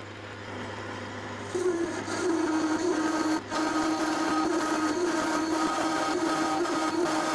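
Metal lathe running with a parting-off tool cutting into the workpiece. From about a second and a half in, the cut chatters with a loud steady pitched drone: tool chatter during parting off.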